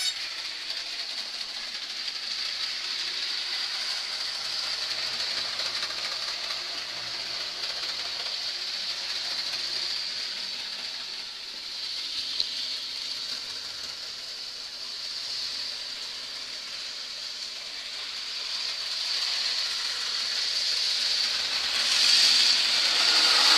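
Two Rivarossi AHM GP18 model diesel locomotives running on the track, a steady high-pitched whir of motors, gears and wheels that grows louder near the end.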